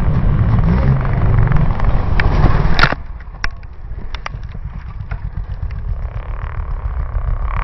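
Dirt bike engine running loudly, cut off about three seconds in by a sharp knock. The level then drops, leaving a quieter rumble with scattered clicks and knocks.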